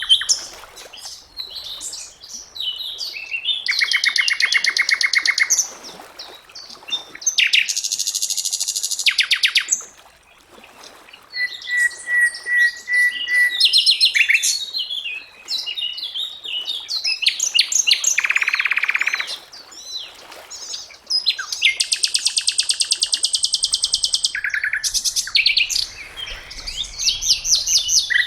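Sikatan londo (a flycatcher) singing a varied song: fast rattling trills and buzzy bursts mixed with quick chirps and a run of short, even whistled notes, with brief pauses between phrases.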